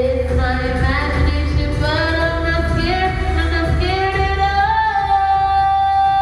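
A singer's voice over a pop backing track with a steady deep bass, sliding between sustained notes and holding one long note from about four seconds in.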